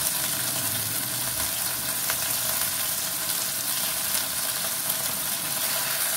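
Paneer cubes frying in hot oil in a kadai: a steady sizzle with a few small crackles.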